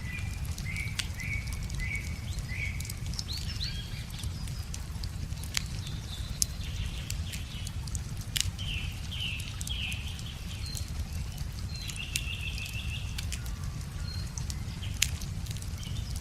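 Bonfire of wood crackling, with scattered sharp pops, over a steady low rush of a river, while small birds sing in short repeated chirps and a brief trill.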